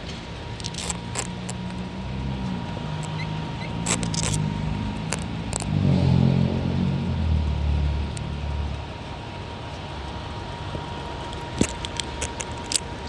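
Harley-Davidson Tri Glide Ultra's Milwaukee-Eight V-twin engine running while riding. It builds up under throttle about four seconds in, is loudest around six seconds, then eases back. Scattered sharp clicks occur throughout.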